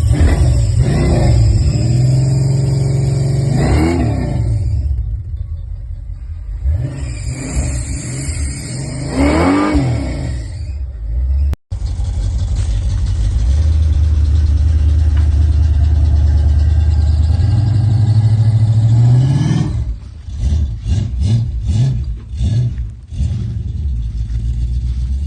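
1984 Chevrolet Monte Carlo engine and exhaust, the exhaust leak freshly repaired, revved twice and dropping back each time. After a cut the engine runs at a steady drone, and from about two-thirds of the way through the sound turns choppy and uneven.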